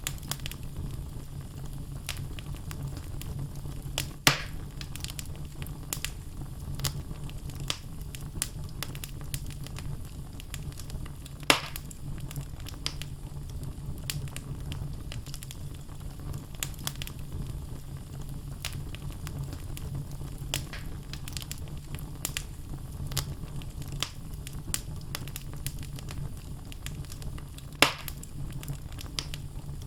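Wood logs burning in a fireplace: a steady low rumble of flame under constant small crackles, with three louder pops, about 4 s in, about 11 s in and near the end.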